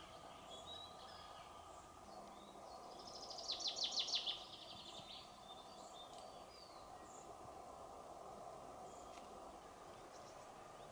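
A small songbird sings one rapid trill of high repeated notes, about a second long, a few seconds in, with faint scattered chirps around it. A steady faint hum runs underneath.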